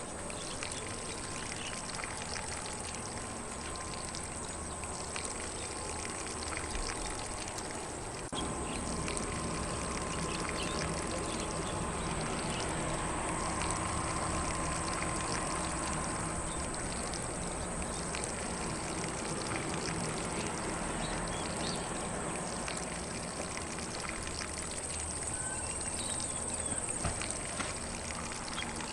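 Lawn sprinkler spraying water across grass in a steady hiss, a little louder from about eight seconds in, with faint bird calls.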